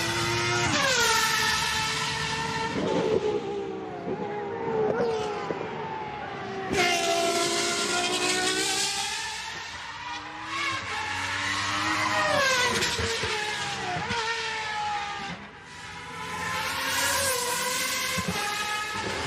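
Race car engines revving hard and passing, pitch climbing and dropping sharply again and again with the gear changes.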